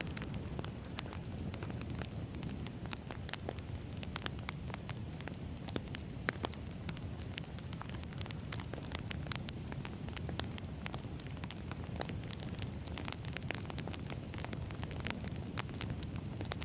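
Wood fire burning: a steady low rumble of flames with frequent sharp crackles and pops of burning logs, a few louder pops about six seconds in.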